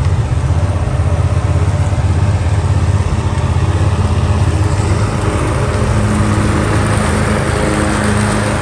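A small engine running steadily at an even speed, with a low hum that holds throughout.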